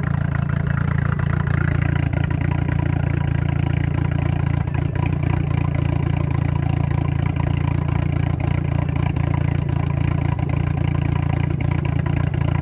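Turbocharged VW 2.0-litre 8-valve four-cylinder engine idling steadily, with a slightly choppy idle from its wide-lobe turbo cam.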